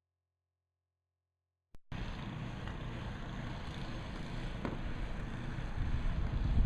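Silence for about two seconds, then a click as street traffic noise cuts in: a steady low rumble of vehicles that grows louder near the end.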